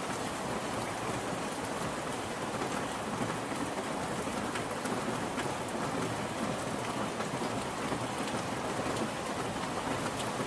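Steady, even rain falling on a surface, with scattered individual drop ticks over the continuous hiss.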